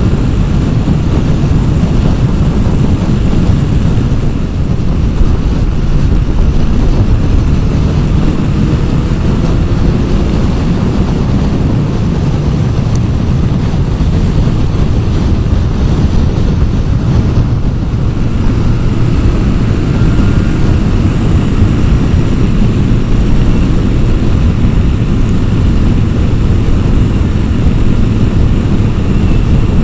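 Motorcycle riding at road speed: the engine running steadily under a loud rush of wind noise.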